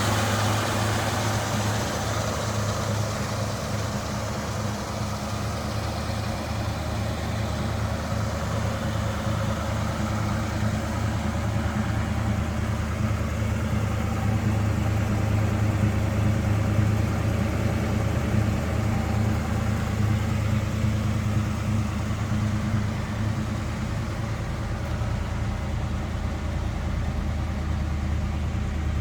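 A 1964 Ford Fairlane 500's 289 V8 idling steadily through its dual exhaust.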